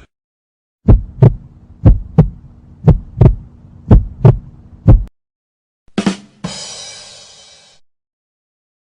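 Heartbeat sound effect: low double thumps, lub-dub, about once a second, five beats. About a second after the last beat comes a short click and then a hissing, ringing noise that fades out over about a second and a half.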